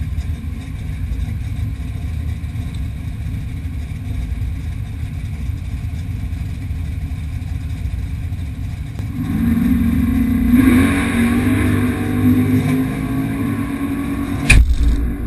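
Outlaw 8.5 drag-race Mustang's V8 idling, heard from inside the cabin. About two-thirds of the way in, the engine speed rises and is held for a few seconds before settling back. Near the end there is one sharp thump.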